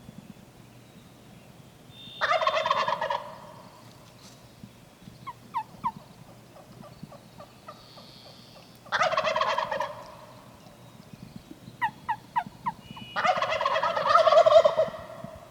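Wild turkey gobbling loudly three times, each gobble a rattling burst of a second or two, the last one longest. Between the gobbles come quieter series of short, falling turkey yelps.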